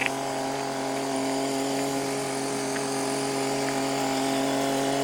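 Mahindra tractor's diesel engine running at a steady speed, a constant even hum.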